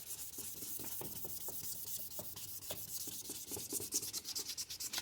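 Wet sandpaper rubbed by hand back and forth over a plastic headlight lens: a quick, rhythmic scratching that gets faster toward the end.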